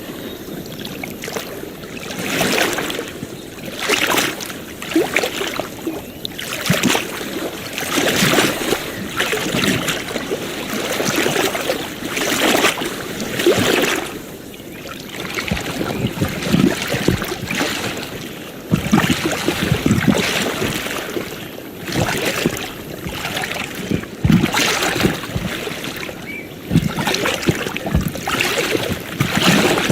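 Gentle waves lapping and splashing at the water's edge, in irregular surges every second or two.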